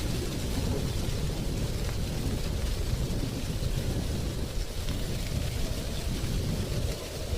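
Steady wind blowing through dry tree leaves, with a deep continuous rumble under a fainter rustling hiss.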